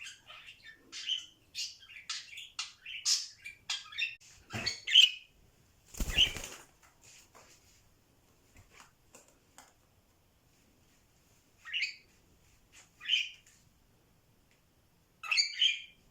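Pet budgerigar chirping and chattering in quick bursts for the first few seconds, then a brief flurry of wing flaps about six seconds in, followed by a few isolated chirps and calls with gaps between them.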